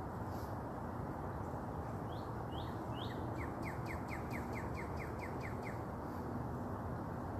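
A songbird singing: three short rising chirps, then a quick run of about a dozen short falling notes, over steady background noise.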